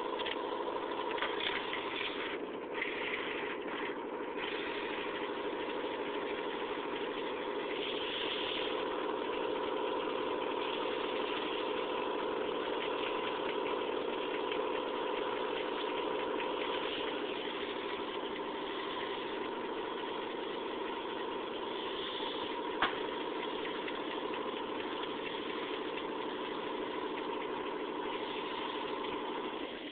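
Homemade paint-can Stirling engine running steadily under a Bunsen burner, a continuous even mechanical hum with a single sharp click about three-quarters of the way through.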